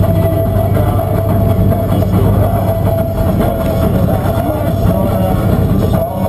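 Volkswagen Fusca (Beetle) air-cooled flat-four engine and road noise heard from inside the cabin while driving: a steady low drone.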